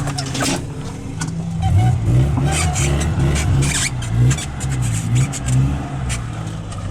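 A 4x4 vehicle's engine running under load off-road, its pitch rising and falling again and again as the throttle is worked, with scattered short knocks and rattles throughout.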